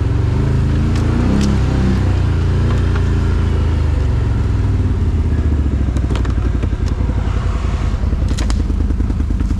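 ATV engine running at low revs, its pitch rising and falling a little, with a few sharp clicks and knocks over it.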